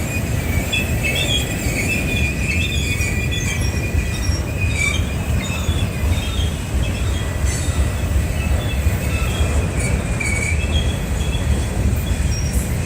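Freight cars rolling past at slow speed: a steady low rumble of wheels on rail, with thin high-pitched wheel squeal wavering in and out.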